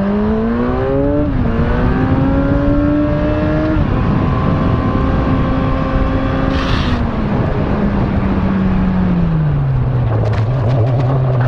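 Motorcycle engine pulling up through two gear changes, its pitch climbing in steps, then holding steady before falling away as the bike slows. Heavy wind rush on the microphone. There is a short hiss about seven seconds in.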